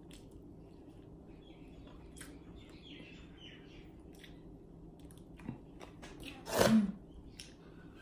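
Close-up mouth sounds of a person chewing fried dried fish (bulad) and rice, with small wet clicks and crunches. A single short, louder sound comes about six and a half seconds in.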